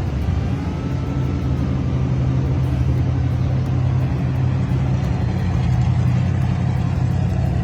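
1966 Ford Mustang's 302 crate V8 running steadily through a new exhaust system, a loud, fast, even engine pulse.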